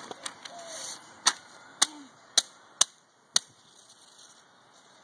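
Five sharp taps or clicks, about half a second apart, each stopping at once, then quiet.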